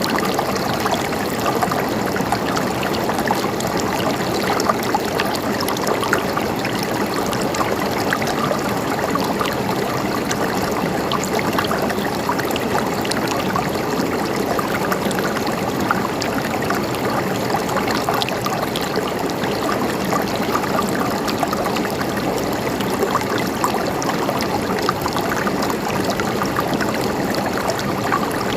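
A small stream of water running and trickling steadily, with a continuous babbling splash.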